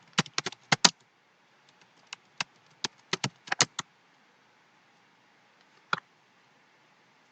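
Computer keyboard keys being typed in short irregular bursts of clicks, with a long pause and one last keystroke about six seconds in.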